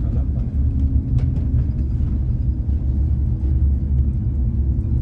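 Scania-chassis Irizar i8 coach driving on the highway: a steady low diesel engine drone and road rumble, with a faint click about a second in.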